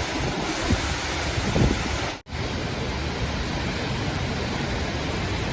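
Steady rushing of a waterfall and wind buffeting the microphone, with a sudden brief dropout a little over two seconds in.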